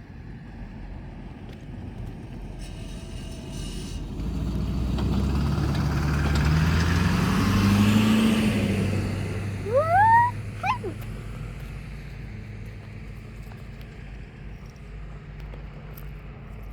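A motor vehicle passes: its engine and road noise swell to a peak about eight seconds in, the engine's low tone rising and then falling as it goes by, then fade. Near the peak a person gives a short rising whooping call.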